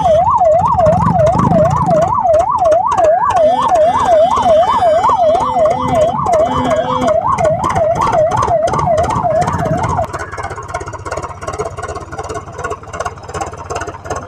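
Electronic siren in a fast yelp, rising and falling about three times a second, cutting off about ten seconds in; a quieter running mechanical noise follows.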